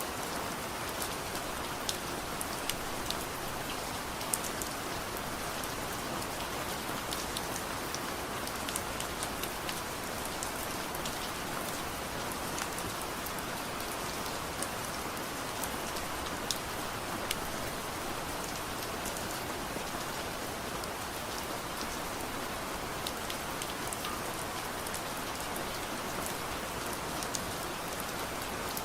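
Steady soft rain falling, an even hiss dotted with many short, sharp ticks and pops throughout.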